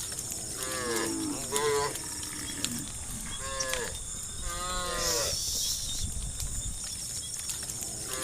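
Cattle in a herd mooing: about four calls in the first five seconds, each bending and falling in pitch.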